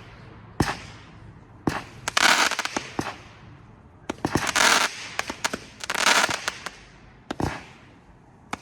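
Consumer firework cake firing shot after shot: sharp single reports, and every second and a half or two a dense burst of crackling as a shell breaks.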